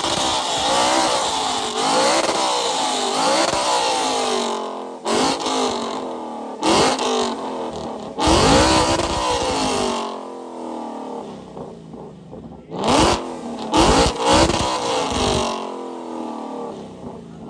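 Boosted Ford Mustang GT (S550) with its 5.0 Coyote V8 being free-revved over and over, the engine's pitch climbing and falling with each blip of the throttle. Several revs are sharper and louder, and near the end it settles back toward a quieter idle.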